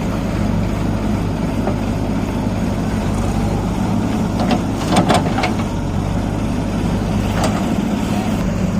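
Tractor diesel engine running steadily while pulling a fully loaded soil trolley, with a few brief sharp knocks about halfway through.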